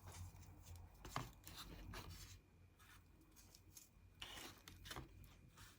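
Near silence with a few faint taps and rustles of paper or tissue being handled and pressed down.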